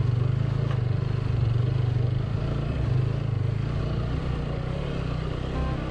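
TVS Apache motorcycle engine running under load at fairly steady revs as the bike climbs a steep, rough slope.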